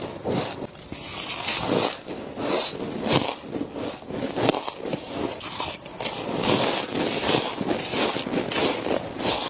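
Close-up bites and chewing of frost, a run of crunchy, crackling bites at about two a second.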